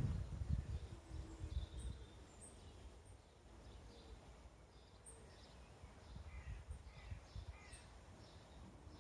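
Faint birds calling in short chirps over quiet outdoor ambience, with a low rumble that fades out over the first couple of seconds.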